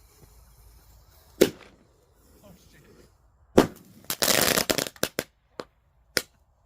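Upside-down air bomb firework going off: two sharp bangs, about a second and a half in and again about two seconds later, then half a second of dense crackling followed by a few separate pops.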